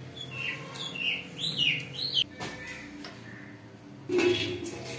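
A bird chirping a short series of rising-and-falling notes, then a clatter of a metal dish rack and dishes near the end.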